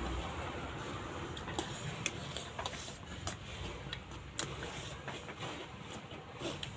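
Eating noodles: irregular small clicks and smacks from chewing and utensils, over a low steady background rumble.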